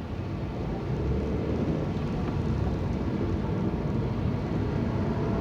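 Car engine and road noise heard from inside the cabin as the car pulls away from a standstill, growing louder over the first second and then holding as a steady low rumble.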